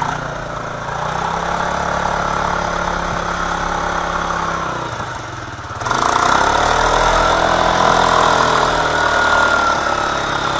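Quad bike (ATV) engine running steadily, then revved hard about halfway through and held at high revs. The pitch slowly eases back near the end.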